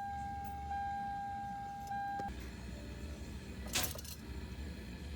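A steady electronic warning tone, cutting off about two seconds in, then two short bursts about two seconds apart as the starter is bumped to turn the engine over and line up the torque converter bolts.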